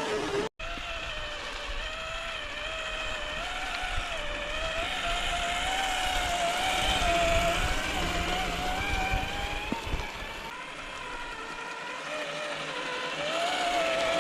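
Electric motor of a radio-controlled tugboat running, a steady whine whose pitch wavers up and down as the throttle changes, over a low rumble. It cuts out for a split second about half a second in.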